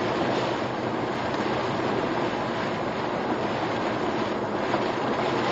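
Steady rushing of typhoon wind and heavy rain against a car, heard from inside the cabin.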